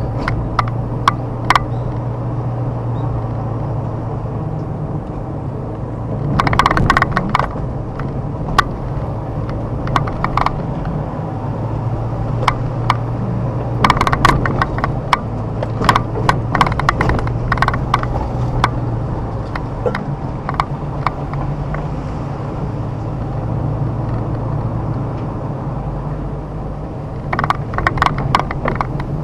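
Car engine running steadily while driving slowly on a rough forest road, with tyre noise. Bursts of clicks and crackles from the tyres crunching over road debris come about six seconds in, around fourteen seconds, and again near the end.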